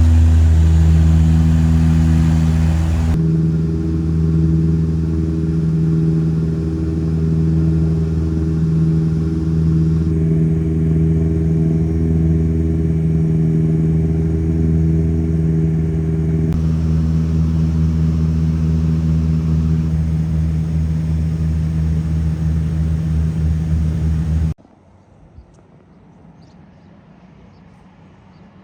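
Dash 8 turboprop's engines and propellers running steadily, a loud, even drone built on low propeller tones. It cuts off suddenly about 25 seconds in, leaving only a faint background.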